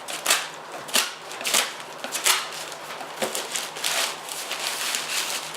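Shipping packaging rustling and crinkling as it is handled and opened, in short irregular bursts with sharper crackles about once or twice a second.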